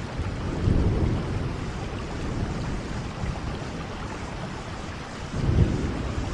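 Steady rain with low rumbles of thunder swelling up twice, about a second in and near the end.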